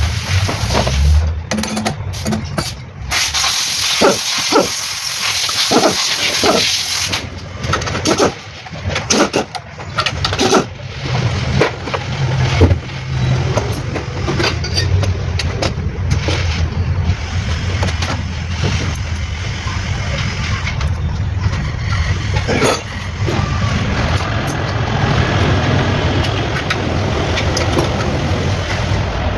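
Mitsubishi 4M40 diesel engine running steadily, with irregular sharp knocks and clicks over it in the first half.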